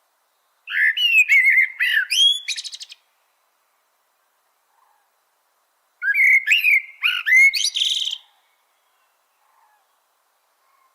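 A songbird singing two separate phrases, each about two seconds long, of quick sliding whistled notes that end in a fast trill, with a pause of about three seconds between them.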